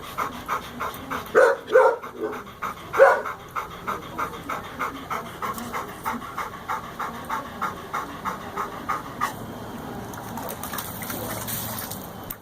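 A dog panting quickly and steadily, about four pants a second, cooling itself in the heat. The panting fades out near the end.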